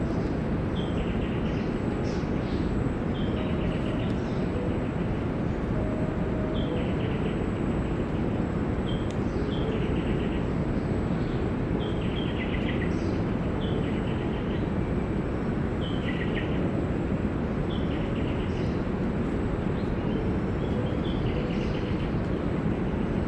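A bird repeats a short call that steps down in pitch, about once every second or two, over a steady low rushing noise. A faint, thin, high steady tone runs under it.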